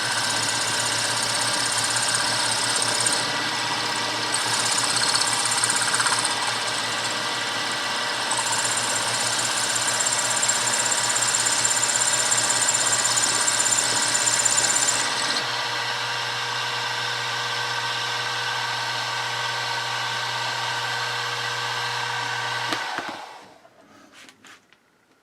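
Milling machine spindle running with an end mill cutting counterbores; a hissing cutting noise comes and goes over the first half, then the spindle runs without cutting and is switched off near the end.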